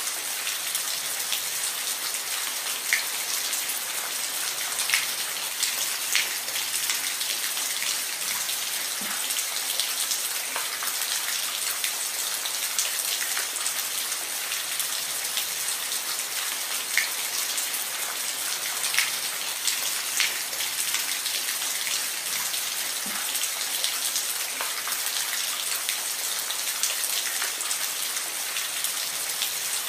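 Steady rain falling, an even high hiss with scattered individual drops ticking loudly on a surface.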